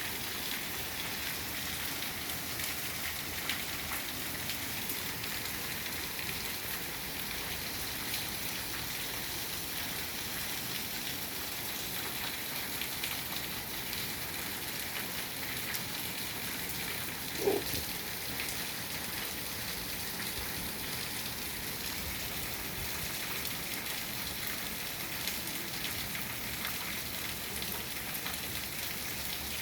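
Heavy rain falling steadily, with many fine drop ticks. About two-thirds of the way through, a single short, low-pitched sound stands out above the rain.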